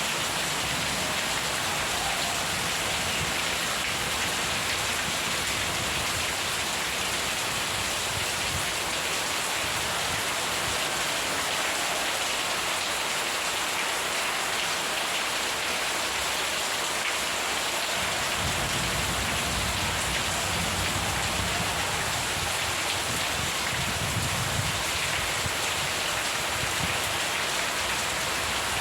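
Steady rain falling in a continuous hiss. About two-thirds of the way through, a low rolling rumble of distant thunder swells under the rain for several seconds.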